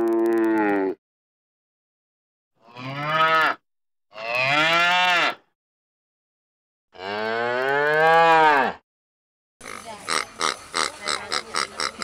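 Cows mooing: the end of one long moo, then three more, each rising and falling in pitch, with silences between. About nine and a half seconds in, pigs start grunting in quick, rough pulses.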